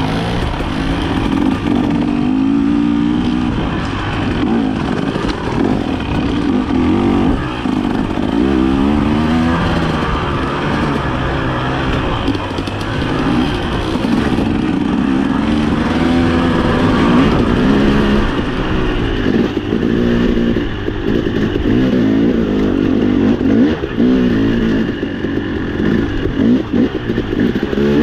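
Dirt bike engine revving up and down continuously under constant throttle changes, with some clatter.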